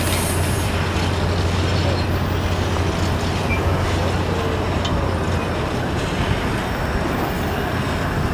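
The last passenger cars of the Canadian Pacific Holiday Train rolling past and away, a steady rumble that eases slightly as they leave. A steady low hum runs underneath.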